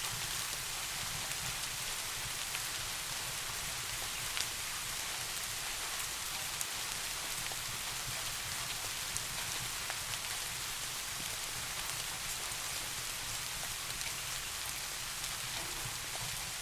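Steady rain falling, an even hiss with a few sharp individual drop ticks scattered through it.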